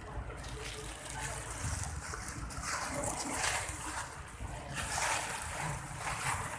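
Heavy rain pouring down, with water splashing and trickling. The hiss swells in surges about three, five and six seconds in.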